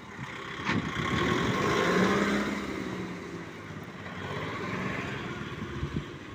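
Four-wheel-drive tractor engine running. It grows louder to a peak about two seconds in, then eases back. There is a sharp knock just under a second in.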